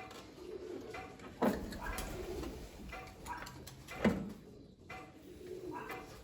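Pigeons or doves cooing in repeated low calls, with two sharp knocks, about a second and a half and four seconds in.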